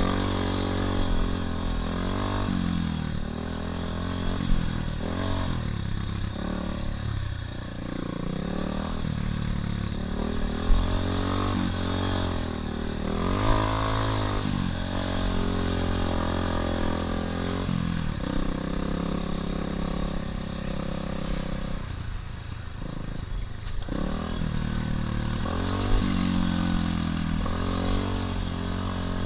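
Dirt bike engine being ridden, the revs climbing and dropping again and again with throttle and gear changes, with a few sharp knocks and clatters from the bike over rough ground.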